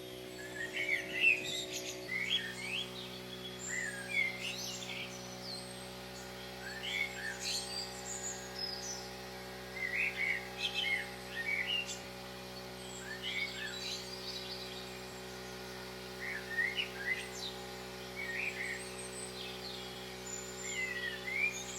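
Small birds singing, short chirping phrases repeating every second or two, over a steady low drone that shifts once about two seconds in.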